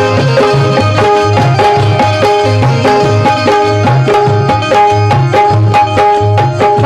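Instrumental interlude of a live Marathi devotional song: hand drums keep a quick, steady beat under a held melody line, with no voice. Singing comes back in right at the end.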